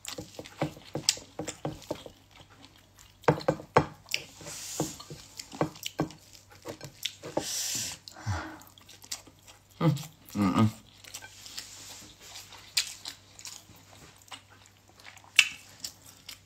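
Close-up eating sounds: a person chewing a mouthful of rice with many short wet lip smacks and mouth clicks. There are two short breathy hisses about four and seven seconds in, and a brief low murmur about ten seconds in.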